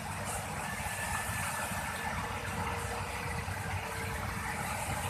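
Excavator's diesel engine running steadily at idle, a constant low rumble without change.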